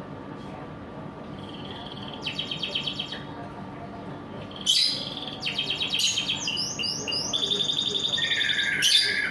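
Domestic canary singing: fast trilled phrases of rapidly repeated notes, starting about two seconds in, pausing, then louder and near-continuous from about halfway, with a run of quick falling notes in the middle of that stretch.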